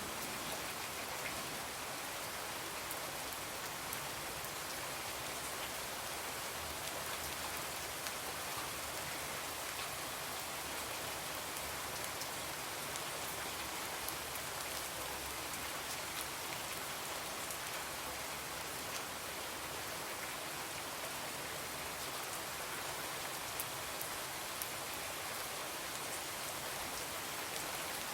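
Steady rain falling, an even hiss, with a few faint sharp ticks here and there.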